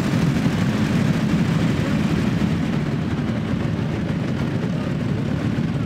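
Motorcycle engines running together, a steady low, dense engine sound with no single machine standing out.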